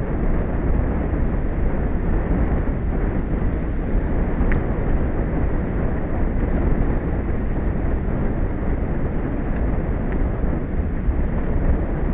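Steady low rumbling noise of wind and sea on an exposed outdoor microphone, even throughout with no distinct events.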